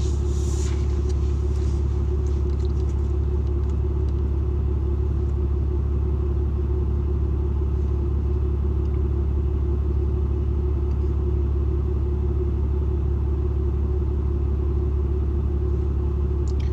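Truck engine running, heard from inside the cab as a steady low rumble that does not change.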